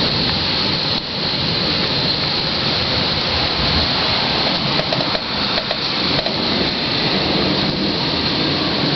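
Heavy rain pouring steadily during a thunderstorm: a loud, dense, even hiss.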